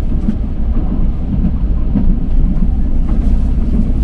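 Steady low rumble of an LRT-1 4th-generation light-rail train running between stations, heard from inside the passenger car.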